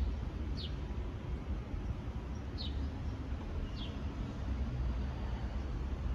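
A small bird giving short, quick downward-sliding chirps, three of them a second or two apart, over a steady low rumble.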